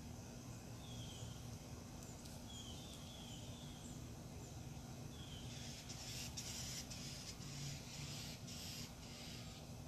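Birds calling outdoors, a run of short, high whistled notes that fall in pitch, about one a second. About halfway through, a rustling hiss comes in bursts for a few seconds over them.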